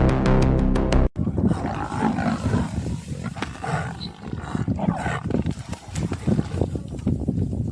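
Background music cuts off about a second in, giving way to irregular low growls and calls from wild animals: lions and buffalo at close quarters.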